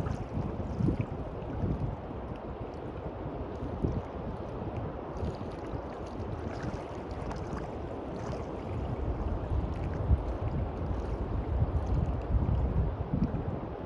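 Sea waves washing on a beach, with wind buffeting the microphone in low rumbling gusts that grow louder for a few seconds in the second half.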